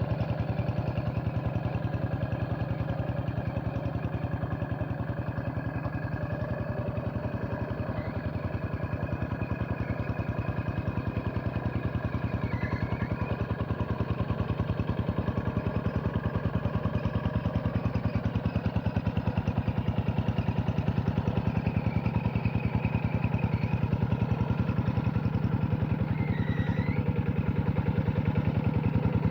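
Hand tractor's single-cylinder diesel engine running steadily with a fast, even chug, working a flooded rice paddy. It gets slightly louder about halfway through.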